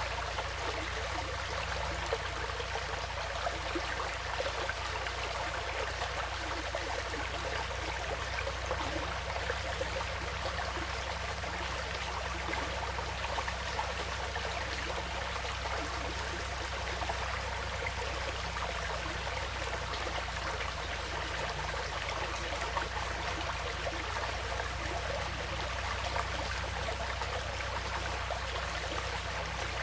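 Small forest stream flowing steadily, an even trickling and splashing of water over stones.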